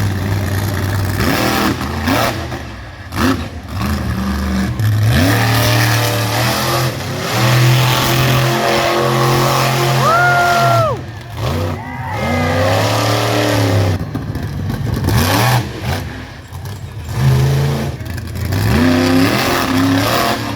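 Monster truck engine revving hard, its pitch climbing and dropping again and again, with several stretches held at high revs.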